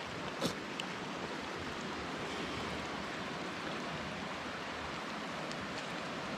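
Rushing river water, a steady even hiss, with a faint click about half a second in.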